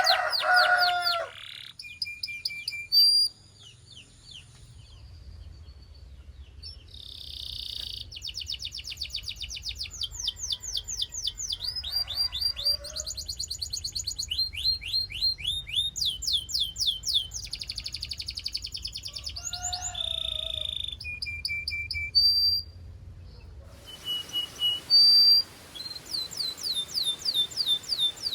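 Canary singing: fast trills and rolls of quickly repeated sweeping notes, phrase after phrase with short pauses between, over a faint low hum.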